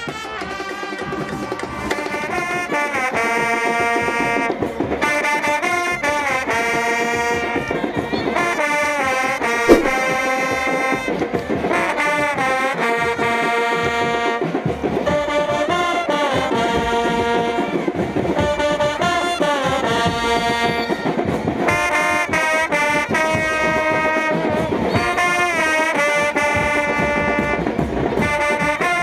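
Brass instruments, trumpet- and trombone-like, playing a melody of held notes with bending pitches. A single sharp knock comes about ten seconds in.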